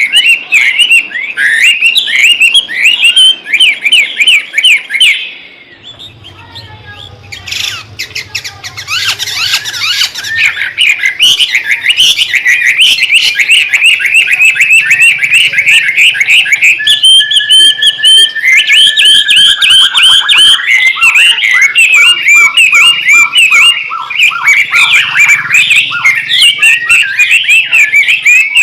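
White-rumped shama (murai batu) singing a busy, rapid chattering song with hardly a pause. It breaks off briefly about five seconds in, and about two-thirds of the way through it holds one long whistled note that dips at the end.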